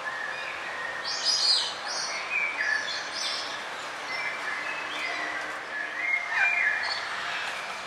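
Several songbirds chirping and singing in a forest, short varied phrases overlapping over a steady background hiss, with louder bursts about a second and a half in and again near the end.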